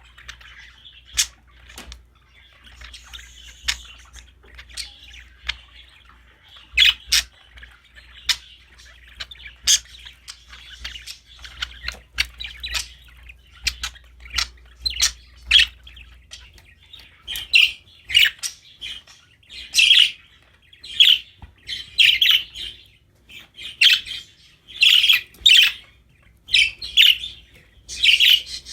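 Budgies (budgerigars) chirping, with short sharp calls that become louder and more frequent about halfway through.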